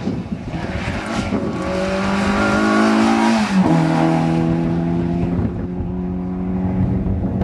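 Peugeot 205 rally car's engine approaching at speed and passing close by. Its note rises to its loudest, drops sharply in pitch as the car goes past about three and a half seconds in, then fades as the car pulls away up the road.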